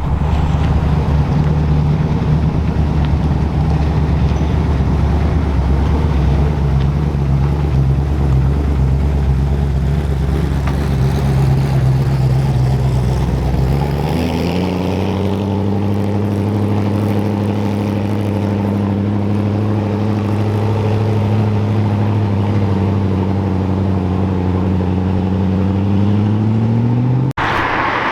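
A car engine's steady drone. Its pitch steps up about halfway through, climbs slowly, then rises quickly just before it cuts off abruptly near the end.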